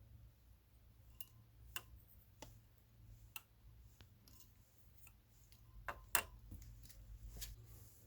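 Scattered sharp clicks and taps of hand tools and small metal parts being handled, about half a dozen, the loudest a pair about six seconds in, over a low steady hum.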